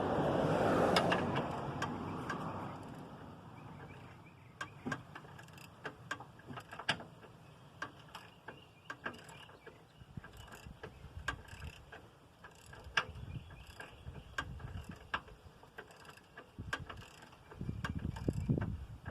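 A short noisy rush, then irregular light metallic clicks and ticks of hand tools working on the truck, ratchet-like. A low rumble comes in near the end.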